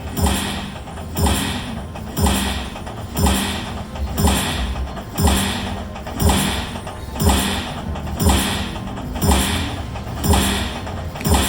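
Poker machine game sound effect: a deep electronic thud with a falling pitch, repeating about once a second over a steady low hum.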